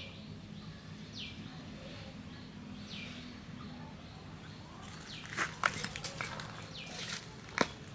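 A bird repeating a short, falling whistled call every second or two over a low steady hum. About five seconds in, a run of sharp clicks and crackles begins, the loudest sounds here.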